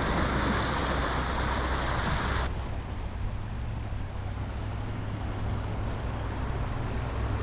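Sea waves washing on a beach, with wind rumbling on the microphone. About two and a half seconds in the sound changes abruptly: the loud hiss drops away and a quieter wash with a steady low rumble remains.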